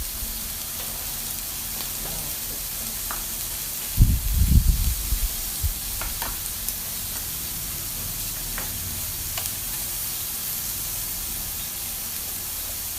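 Slices of pork belly sizzling steadily on a hot grill, with a muffled low bump about four seconds in and a few light clicks after it.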